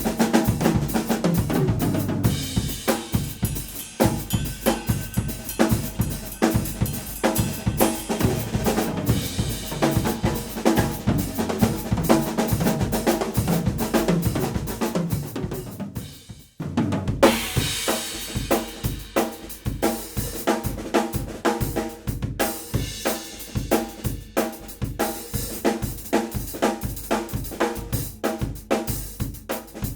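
Drum kit played with snare, bass drum and Anatolian Turkish cymbals in a continuous groove. The playing breaks off for a moment about halfway, then starts again with the cymbals ringing more brightly.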